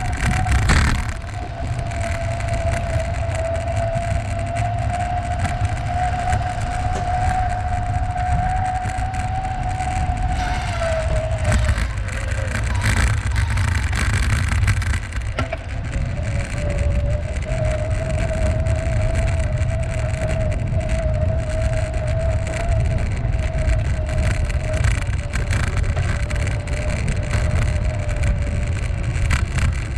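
Wind buffeting the microphone of a moving rider, a heavy low rumble, with a steady whine from the ride. The whine dips in pitch twice, about ten and fifteen seconds in, as the pace eases, then steadies again.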